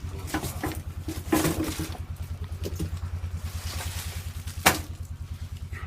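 Quad (ATV) engine idling with an even low pulse as it warms up after a cold start. A sharp knock about three-quarters of the way through is the loudest sound.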